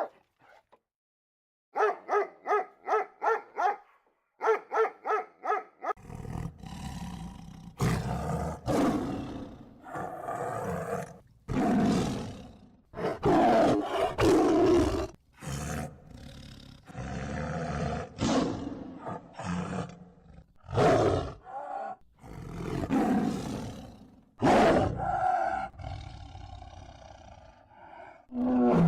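Animal calls: two quick runs of short, pitched calls, then a string of loud, long roar-like calls with a deep rumble under them.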